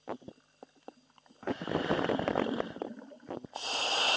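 A commercial diver breathing through his helmet, heard over the diver's radio: a rough, gurgling exhale about a second and a half in, then a long hiss of the demand valve as he breathes in near the end.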